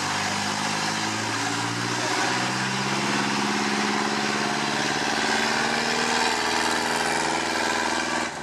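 Truck engine running under load, its revs climbing slowly for several seconds and then holding steady; the sound changes abruptly right at the end.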